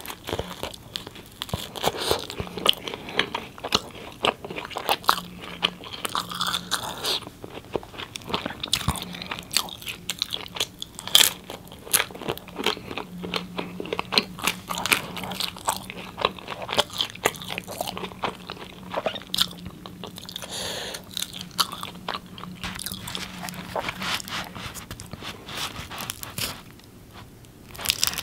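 Close-miked biting and chewing of naan bread dipped in curry: a dense run of sharp, wet mouth clicks and small crunches, easing off into a brief lull shortly before the end.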